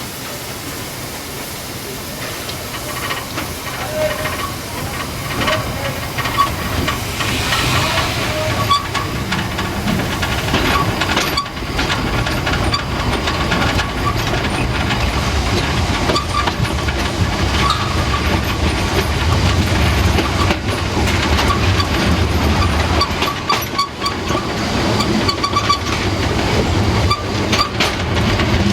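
Narrow-gauge steam train: steam hissing from the locomotive, then the train running with wheel clatter over the rail joints, growing louder.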